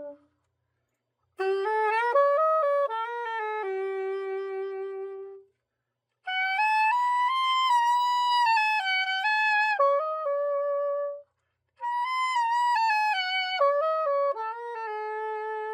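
Selmer Super Action 80 Series II soprano saxophone played solo after a complete overhaul, as a play test: three short melodic phrases with brief pauses between them, each ending on a held note.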